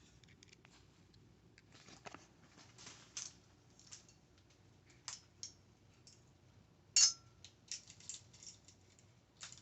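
Small screws and hardware being rummaged through and handled: scattered light clicks, taps and rattles, with one sharper clack and a brief ring about seven seconds in.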